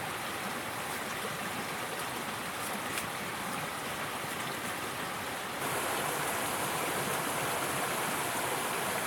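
Rushing river water, a steady, even noise that gets a little louder just past halfway.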